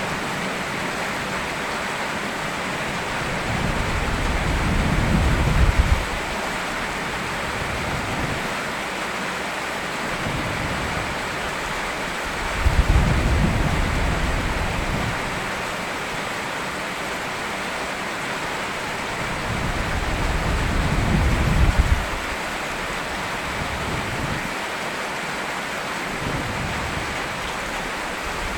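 Steady rain with low thunder rumbling under it, swelling three times: a few seconds in, about midway and about three quarters through. Two of the rumbles build and then cut off suddenly.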